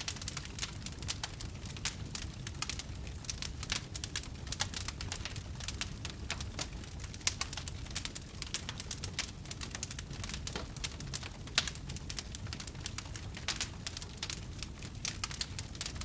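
Wood campfire burning, with a dense run of irregular crackles and small pops over a low, steady rumble of flames.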